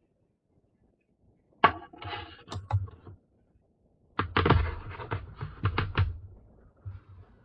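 Clicks, taps and knocks from hardware being handled during a graphics card teardown, in two short bursts: one about a second and a half in and a busier one about four seconds in.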